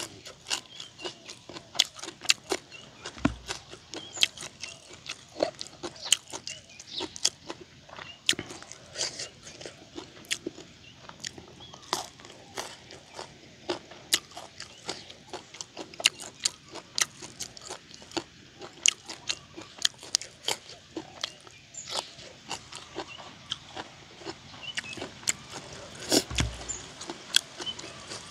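Close-miked chewing and biting, with many irregular sharp crunches and wet mouth clicks. Twice there is a dull thump.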